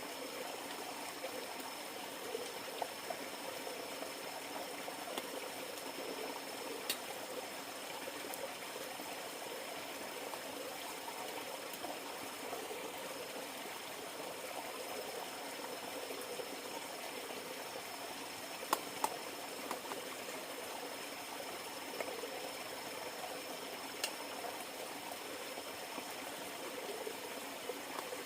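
River water flowing and babbling steadily, with a faint steady high-pitched tone above it and a few sharp clicks scattered through.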